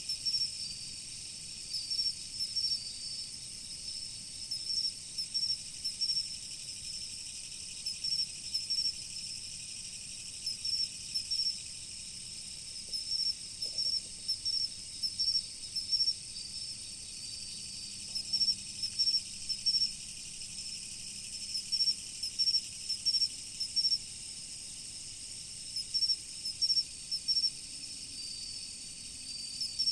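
Autumn insects chirping: short clusters of high, sharp chirps repeating every second or two over a steady high hiss of many insects.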